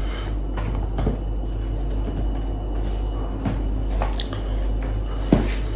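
Scattered light knocks and rustles of someone putting on shoes, over a steady low hum.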